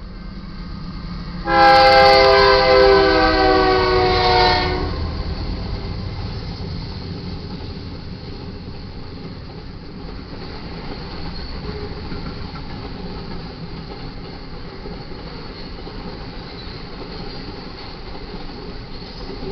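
Horn of a BNSF GE Dash 9-44CW freight locomotive sounding one loud multi-tone chord, about three seconds long, from about a second and a half in; its pitch sags slightly as it cuts off. After it comes the steady rumble of the passing train, slowly fading.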